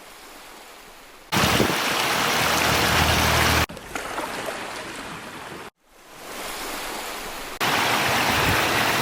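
Steady rushing water in several short takes that cut abruptly from one to the next, some much louder than others, with a brief drop to silence about two-thirds of the way through.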